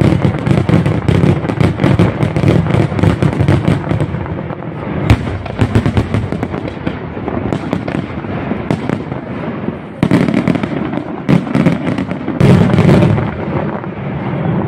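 Aerial fireworks display: a rapid barrage of shell bursts and sharp pops, with one especially sharp bang about five seconds in and a louder flurry of bursts near the end.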